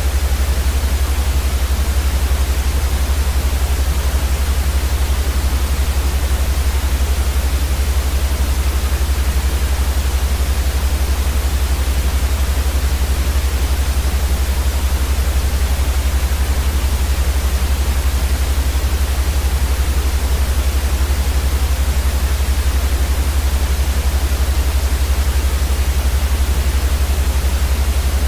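Steady, unchanging electronic white noise for baby sleep: an even hiss across the whole range over a stronger deep rumble.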